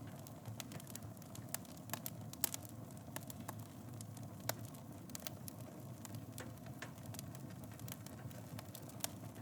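Wood fire in a fireplace crackling: irregular sharp pops over a steady low rustle of the flames, with louder pops about two and a half and four and a half seconds in.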